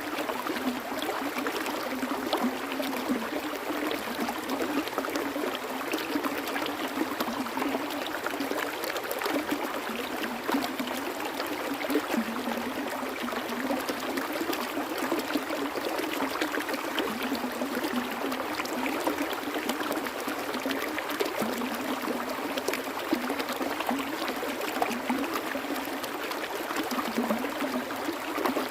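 Stream water flowing steadily: an even rush with a constant patter of small splashes.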